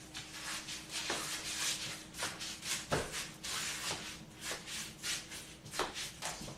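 Shuffling and rubbing noises, like feet moving and things being handled, with repeated short scrapes and a few light knocks.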